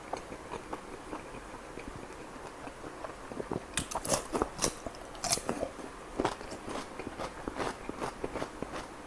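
A person biting into and chewing chicken kalmi kabab close to the microphone. Soft chewing gives way, a little under four seconds in, to a cluster of sharp, loud bite sounds, then chewing again.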